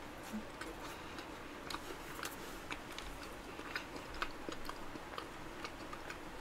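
Quiet, close-miked chewing of a cream cheese macaron: many small, irregular mouth clicks as the bite is worked with closed lips.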